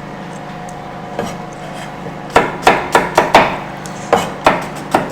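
Knife chopping English pear into small cubes on a cutting board: a quick run of about nine sharp knocks starting about halfway through, over a steady low hum.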